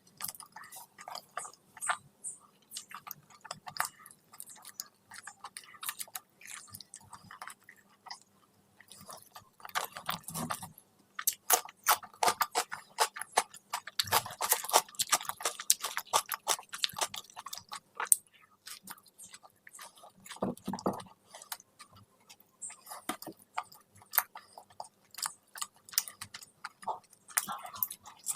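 Close-miked chewing and wet mouth sounds of a person eating a meal of curry with rice and puri, made up of many small clicks and smacks. They grow busier and louder in the middle stretch.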